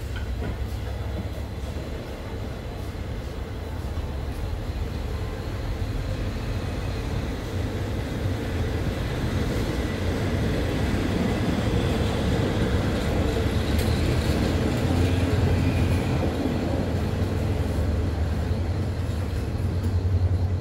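Passenger train pulling out of the station, its carriages rolling along the rails with a steady low rumble that gradually grows louder.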